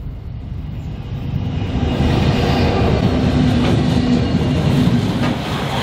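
A train passing close by, growing louder over about a second and a half and then holding a loud, steady rumble with a faint sustained note, plus a couple of sharp clicks.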